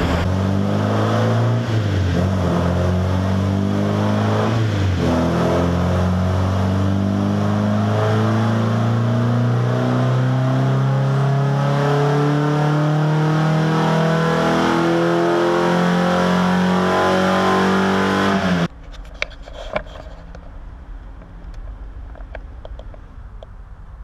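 Nissan 240SX's four-cylinder KA24DE engine making a wide-open-throttle pull on a chassis dyno: after two brief drops in pitch early on, it climbs steadily in revs for about thirteen seconds. The crew say the engine is running very lean. The engine sound cuts off suddenly about nineteen seconds in, leaving a much quieter background with a few clicks.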